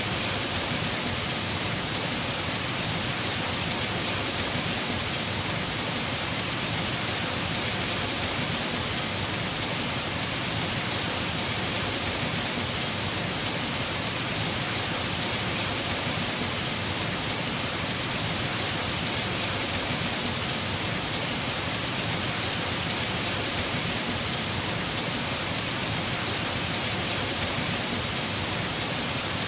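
Heavy rain falling on a house roof, a steady even hiss with no letup or thunder claps.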